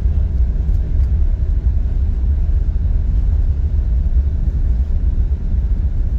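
Steady low rumble inside an airliner cabin on the ground.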